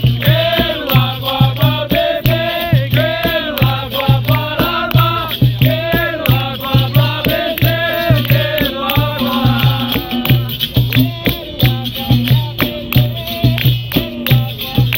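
Capoeira roda music: a steady low drum beat and a shaken rattle, with a sung melody over them that stops about ten seconds in while the percussion plays on.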